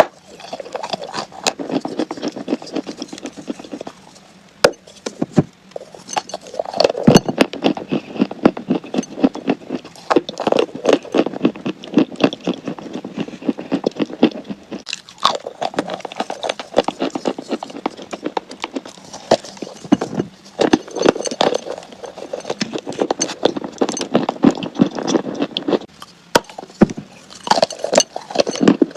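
Close-up crunching of crunchy chalk being bitten and chewed: dense, sharp crackling, with short lulls every few seconds.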